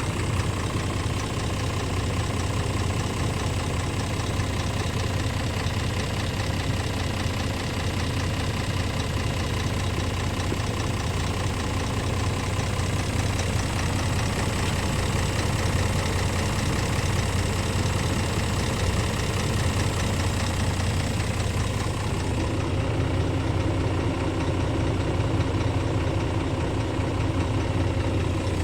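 Scania R450 truck's 13-litre inline-six diesel idling steadily. The sound changes slightly about three-quarters of the way through.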